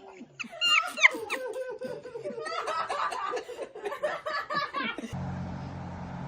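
People laughing and snickering. About five seconds in it cuts to a steady low hum.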